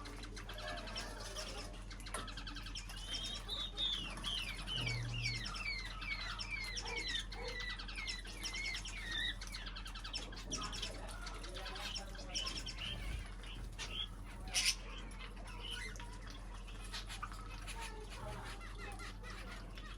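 Birds chirping and calling, with a run of quick, repeated, downward-sweeping notes a few seconds in that lasts several seconds. A single sharp click comes about two thirds of the way through, over a steady low hum.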